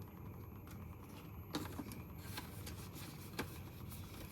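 Paper banknotes rustling, with a few short crisp taps and rubs, as cash is handled and tucked into a budget envelope, over a faint low steady hum.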